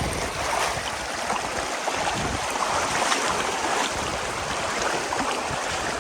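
River water flowing, a steady rushing with no break.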